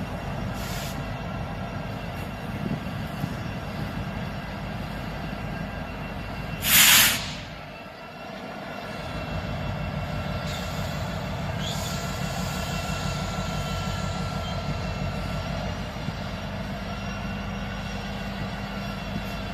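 A train rolling past with a steady rumble, and a thin high squeal from the wheels in the second half. A brief, loud hiss breaks in about seven seconds in.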